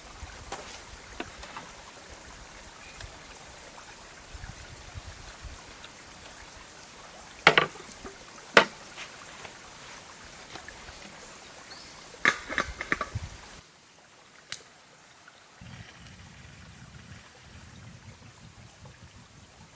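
A few sharp knocks and clicks over a faint steady hiss: two loud ones about a second apart midway, then a quick cluster. The background cuts off abruptly after that, and a low rumble follows.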